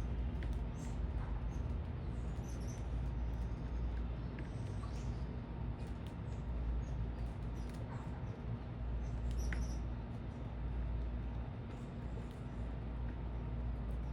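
Steady low city rumble and hum, with faint, brief high chirps of small birds scattered throughout.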